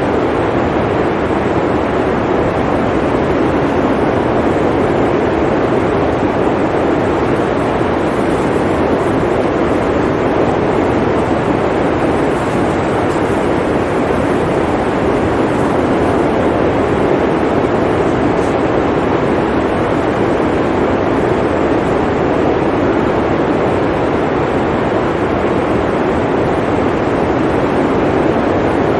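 Blizzard wind blowing in a steady, unbroken rush, its noise strongest low in pitch and without distinct gusts.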